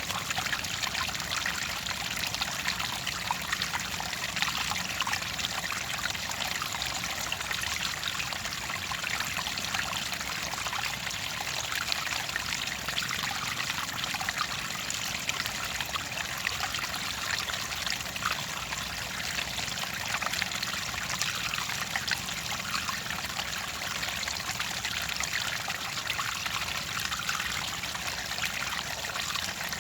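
Clear water trickling and splashing in a steady, unbroken flow.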